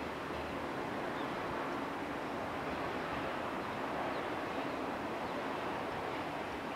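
Steady rushing noise of a yellow JR West electric train rolling away into the distance.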